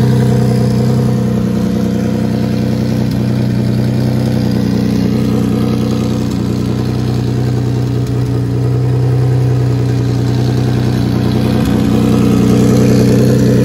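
Turbocharged Nissan VQ35 3.5-litre V6 idling steadily through a hood-exit open dump and open wastegate, with a slight dip in level midway and a small rise near the end.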